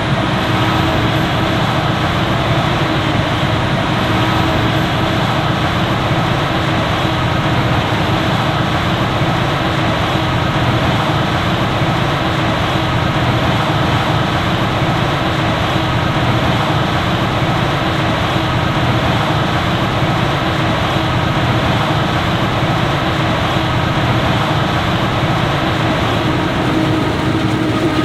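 Claas Jaguar 950 self-propelled forage harvester running steadily under load while chopping maize, a dense, loud machine noise with a constant whine over it.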